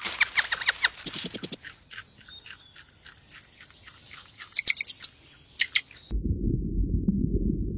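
A bird chirping: a run of quick high chirps, then a fast high trill with more chirps. About six seconds in it cuts off suddenly and a low rumbling noise takes over.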